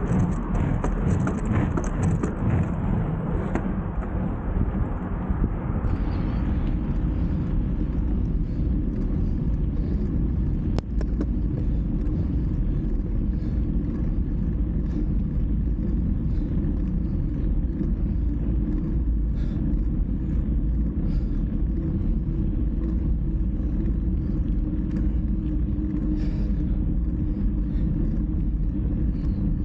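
Steady low rumble of wind buffeting the microphone and road noise while riding a bike; a brighter hiss on top fades out about six seconds in.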